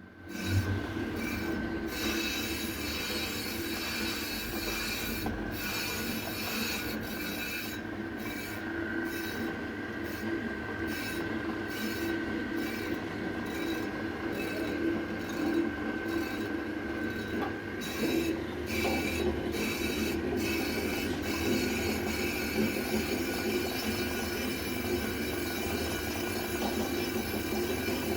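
Car brake drum screeching and scraping metal on metal: a steady high squeal over a lower grinding hum. The highest part of the sound drops out for moments several times in the first twenty seconds.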